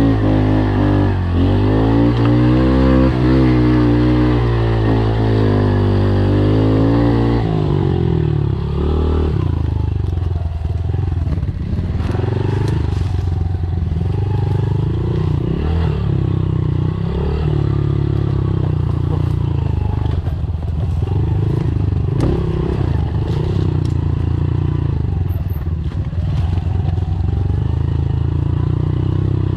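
Honda CRF dirt bike's single-cylinder four-stroke engine revving up and down hard for the first seven seconds or so, then running at lower, steadier revs with clattering and scraping from riding over rough trail.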